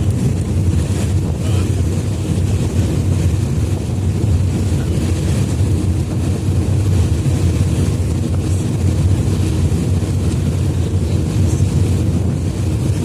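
Passenger ferry under way: a steady low rumble of its engines and water along the hull, with wind buffeting the microphone.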